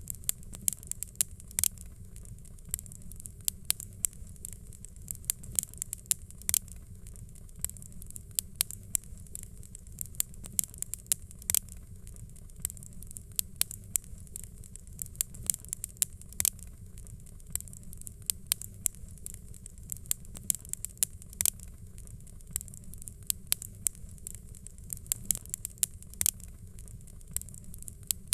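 Fire crackling: many irregular sharp snaps and pops over a low steady rumble.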